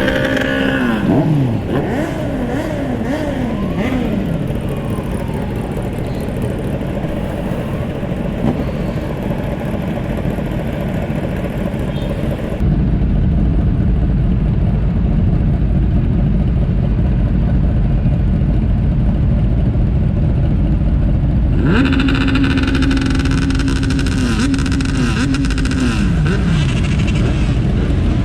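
Kawasaki motorcycle engines revving, their pitch rising and falling over and over. In the middle stretch the revving gives way to a steady low rumble, then the revving returns near the end.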